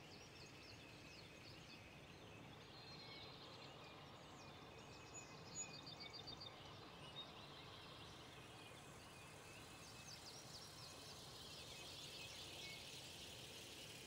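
Faint birdsong at dawn: several birds chirping and trilling over a quiet background hiss, with a quick run of repeated notes about six seconds in.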